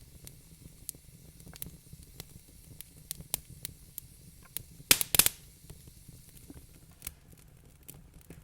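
Wood fire crackling in a fireplace: scattered sharp pops and snaps over a steady low rumble, with a loud quick cluster of pops about five seconds in.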